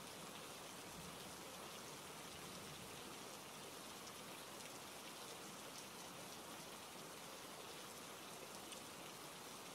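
Steady rain falling: a quiet, even hiss with scattered drop ticks.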